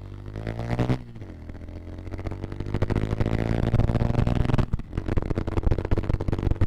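Bajaj Pulsar motorcycle's single-cylinder engine pulling away under throttle, its pitch rising, dropping about a second in, then climbing again for several seconds. The sound turns rougher and choppier for the last two seconds.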